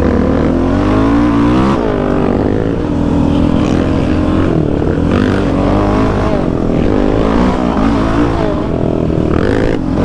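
Yamaha Raptor 700 ATV's single-cylinder four-stroke engine, breathing through an aftermarket Dasa full exhaust, revving up and dropping off again and again as the quad is ridden hard on a dirt trail.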